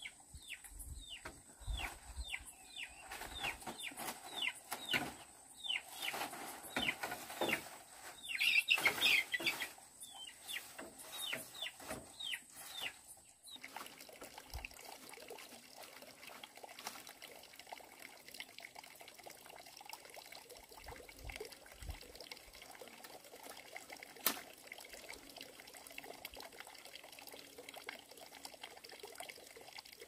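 Bird calls: a rapid run of short falling chirps, loudest about nine seconds in, breaking off abruptly about halfway through. After that only a faint steady background, with a single sharp click about three quarters of the way in.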